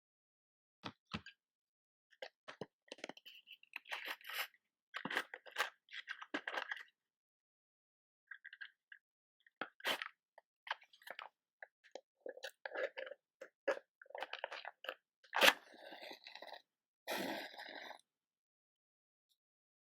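Close-up handling of a matchbox and long matches: irregular taps, scrapes and rustles. Three-quarters of the way through comes one sharp, loud strike with a short hiss after it, then another brief noisy burst.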